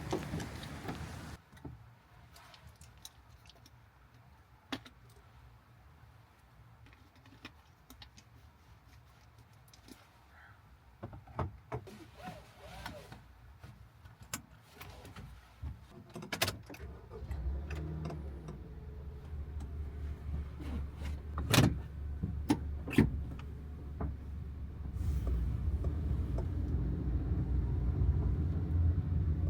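Scattered light clicks and jingles, like keys and small fittings being handled inside the van, with a few sharper clicks. About halfway a low steady rumble sets in and grows louder near the end.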